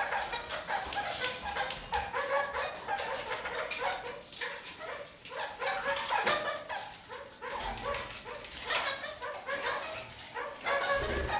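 Red-crowned parakeets (kakariki) chattering in a rapid string of short, chirping calls, with scattered clicks among them.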